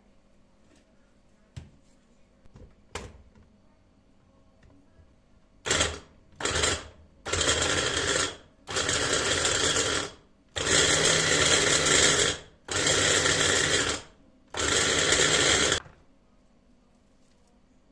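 Small electric kitchen motor, such as a food chopper, run in seven pulses: two brief ones, then five of a second or two each. A couple of light clicks come before it.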